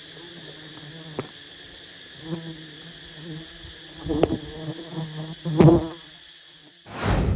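Honey bees buzzing close by, the buzz swelling and fading as bees fly past, over a steady high background hiss, with a few sharp clicks and a loud rush of noise near the end.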